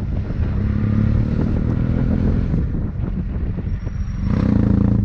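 Motorcycle engine running under way, with a steady low note. Near the end it gets louder and rises in pitch as it is revved up.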